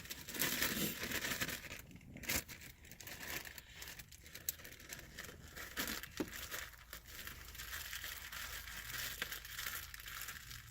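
Plastic bags of pipe tobacco crinkling and rustling in irregular bursts as they are handled.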